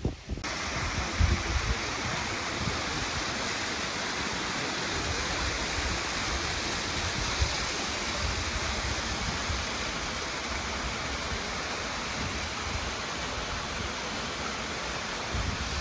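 Steady rush of running water from a small forest river, starting abruptly at a cut just after the start, with low rumbles on the microphone now and then.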